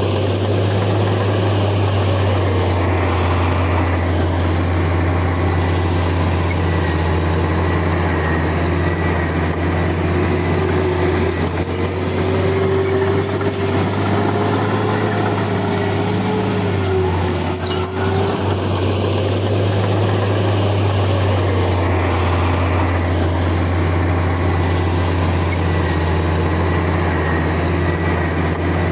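Komatsu bulldozer's diesel engine running steadily under work, a deep drone with a thin whine above it that drifts slightly up and down in pitch.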